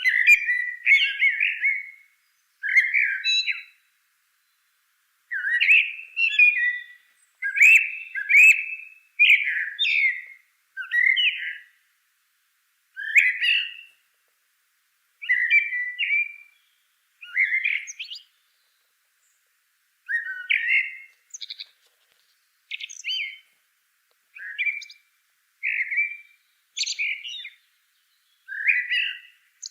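A songbird singing short phrases of quick chirps and warbles, one phrase every second or two with silence between them.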